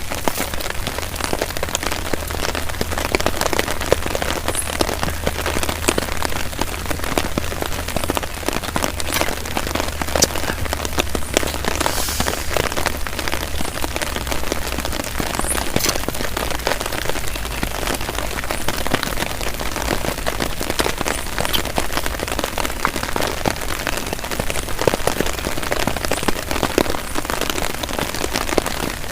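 Heavy rain falling steadily, with many sharp individual drop hits close by, as on a tarp overhead. A low steady rumble runs underneath and fades out about halfway through.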